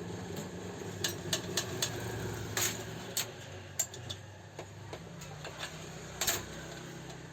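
Irregular sharp clicks and taps, about a dozen, from parts of an old Revo 81-3 overlock sewing machine being worked by hand, over a steady low hum.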